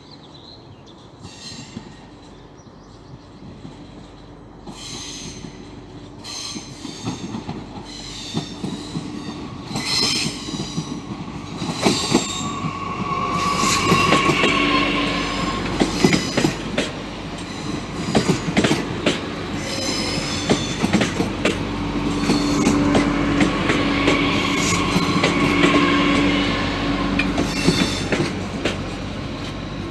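TER regional train entering the station at low speed. It grows steadily louder as it approaches and is loudest from about halfway, as the cars run alongside the platform. Quick clicks of the wheels on the rails are heard, along with a steady whine.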